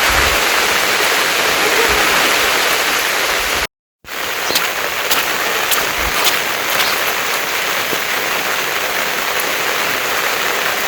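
Heavy rain falling with a steady hiss. It cuts out for a moment about four seconds in, then comes back with scattered sharp ticks.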